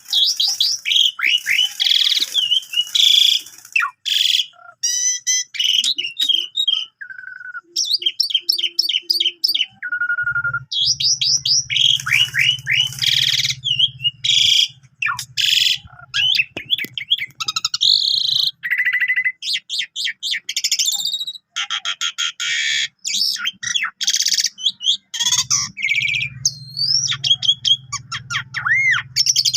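Asian pied starling (jalak suren) singing a rapid, varied stream of chirps, trills and whistles, full of mimicked phrases. A low steady hum sits under the song for several seconds near the middle and again near the end.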